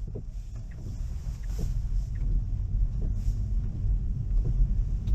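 Low, steady road and tyre rumble inside a Tesla's cabin as it drives on wet pavement, with faint scattered ticks and two brief hissy swells.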